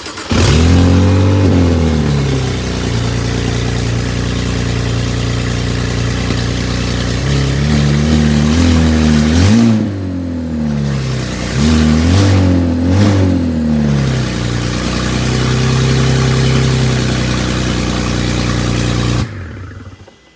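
BMW N54 twin-turbo inline-six in a 1972 BMW 2002 catching on its very first start, flaring up and settling to a steady idle. It is blipped in two bursts of short revs in the middle, idles again and is then shut off near the end.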